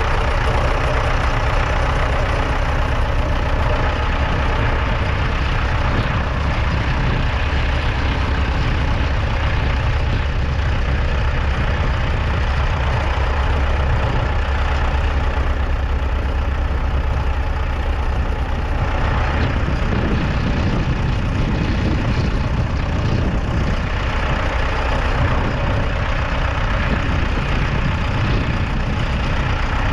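Ford 6600 tractor's 4.2-litre four-cylinder diesel engine running steadily.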